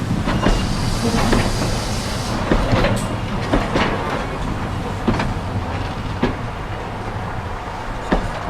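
Heritage steam-hauled train running along the line: a steady low rumble with irregular clicks and knocks of wheels over the rail joints, and a hiss for about two seconds near the start.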